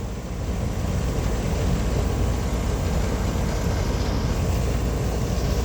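Air-conditioning condenser unit running steadily, its compressor and outdoor fan giving a constant, even noise weighted to the low end; the unit is running again after its bad capacitor was replaced.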